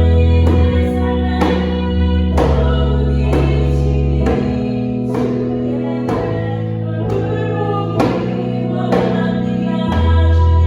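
Live praise song: piano or keyboard chords with a deep bass, a singing voice, and djembe strokes keeping a steady beat about twice a second.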